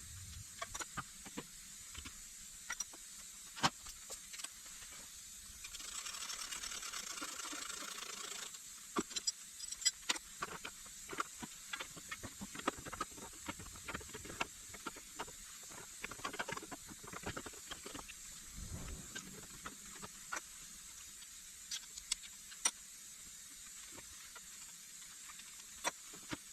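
Scattered clicks and clinks of hand tools against engine parts during work on a Suzuki K6A engine, with a steady hiss for about two and a half seconds starting about six seconds in, and a low thump near the end of the second third.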